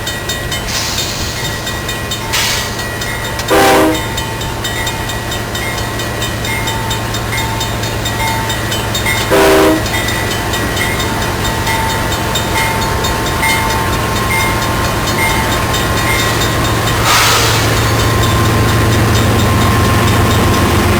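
Train locomotive running with a steady low drone, sounding two short horn toots, about four and nine seconds in; the engine grows louder near the end.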